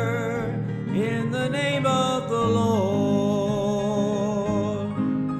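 Gospel song: a singer holds long notes with vibrato over a steady instrumental backing.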